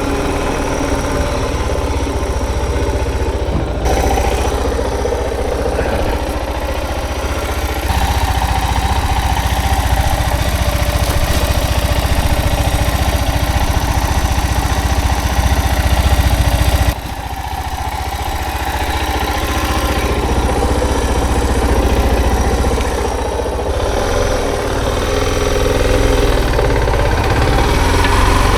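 Suzuki DR650's single-cylinder engine running steadily as the motorcycle is ridden on a dirt road, with a heavy low rumble underneath. The sound drops abruptly a little past halfway, then builds again.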